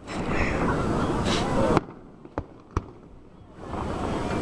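Fireworks going off: a dense crackling that cuts off suddenly a little under two seconds in, then two sharp bangs about a third of a second apart, then dense crackling building again near the end.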